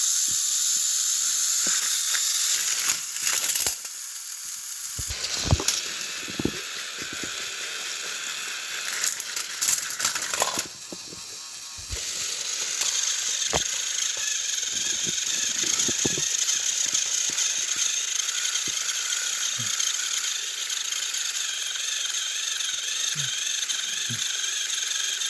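Small battery-powered toy train motors whirring steadily, with scattered plastic clicks and rattles. The whir drops away briefly about ten and a half seconds in, then picks up again.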